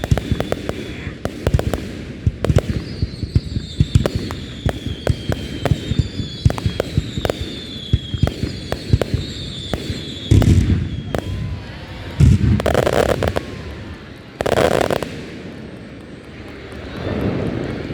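Fireworks display: rapid crackling pops with whistling shells through the first half, then several louder bursts between about ten and fifteen seconds in.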